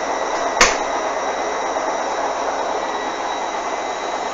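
Hoover washing machine drum spinning at about 600 rpm in the intermediate spin, a steady rushing hum, with a single sharp knock about half a second in. The drum is full of suds, which the owner expects to trigger a suds lock.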